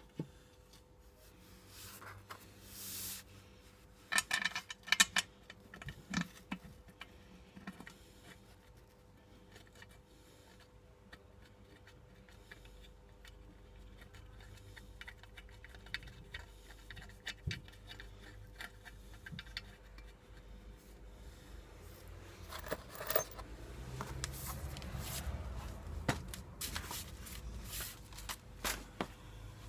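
Metal tools and fasteners clinking and scraping in scattered knocks and clanks. A low rumble builds over the last few seconds.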